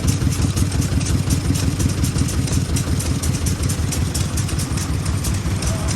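Vintage Japanese stationary engine (hatsudōki) running steadily, with an even, rapid beat.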